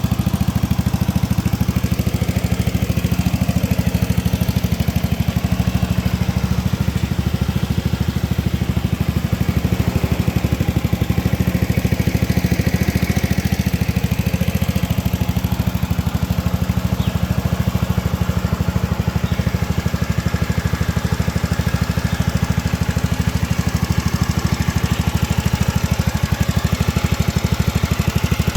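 Small four-stroke motorcycle engine, fitted to a home-built scooter, idling steadily with a fast, even putter.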